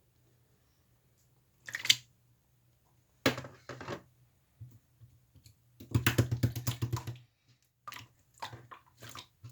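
Orange slime being squished and pressed by hand, giving irregular bursts of sticky clicking and crackling; the longest, densest run of rapid clicks comes about six seconds in.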